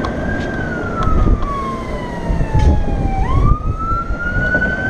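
Emergency-vehicle siren in a slow wail, its pitch falling over about three seconds and then rising again near the end, over a steady low rumble.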